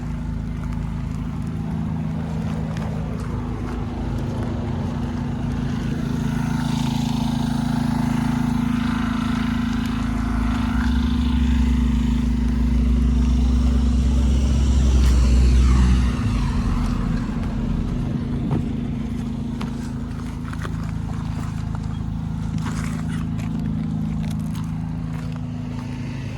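A small engine running steadily, with a deeper low rumble for about five seconds around the middle.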